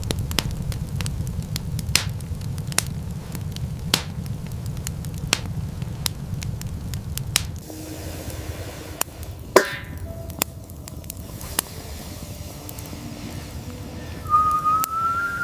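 Fire crackling, with irregular sharp pops over a low rumble; the rumble drops away about eight seconds in. Near the end a short high whistle rises slightly in pitch.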